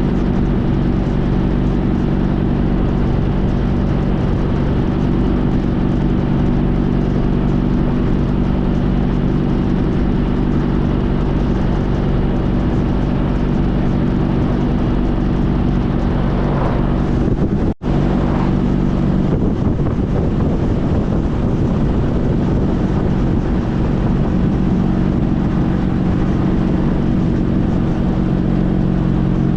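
2014 Honda CTX1300's V4 engine running steadily under way, with wind and road noise over it. About eighteen seconds in the sound breaks off for an instant, and after that the engine note settles at a different pitch.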